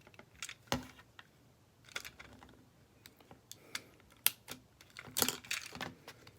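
Scattered small clicks and taps of tools and fingers on the plastic and metal parts of a disassembled smartphone as a stubborn internal part is pried at, with a cluster of clicks near the end.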